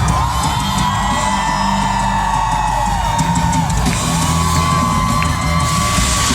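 Live heavy-metal music with drums and bass, over which a series of long held high notes rings out, each lasting two to three seconds.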